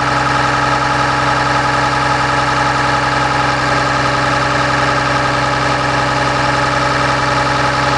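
Cummins ISB inline-six turbodiesel idling steadily in the engine compartment of a Blue Bird All American school bus, with an even, unchanging hum.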